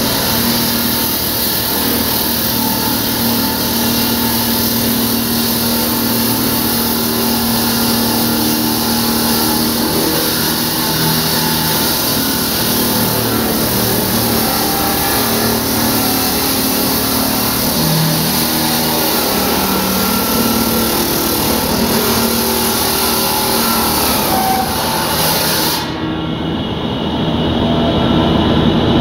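Gas-powered diamond concrete saw running steadily and loudly while cutting, an engine note under a harsh hiss. About 26 s in, the high hiss drops out abruptly.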